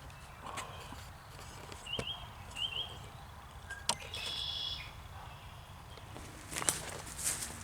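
Small birds chirping in short notes, one giving a buzzy call about four seconds in, with a couple of sharp snaps. Near the end, crunching and rustling of dead leaves and twigs starts up.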